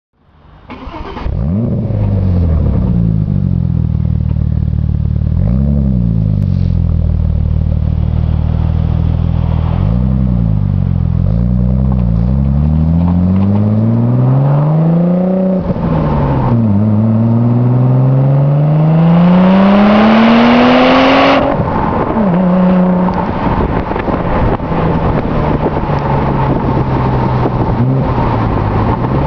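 Audi S4's 2.7-litre twin-turbo V6 through a custom exhaust and intake, revved in short blips and then pulling hard up through the revs in two long rising runs with a gear change between them. The second run cuts off sharply about twenty seconds in, and the engine then runs at lower, uneven revs with scattered crackles.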